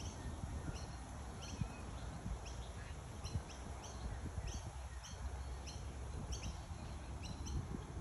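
Small birds chirping, many short high notes at an irregular pace, over a low rumble on the microphone.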